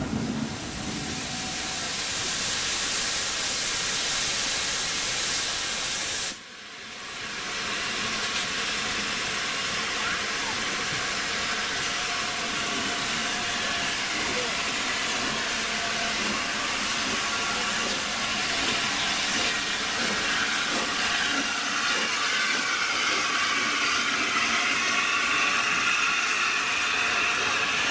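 Steam locomotive letting off a steady, loud hiss of steam. The hiss cuts out abruptly about six seconds in and quickly comes back.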